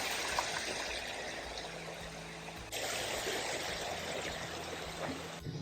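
Steady noise of running water, with an abrupt change about two and a half seconds in and again just before the end.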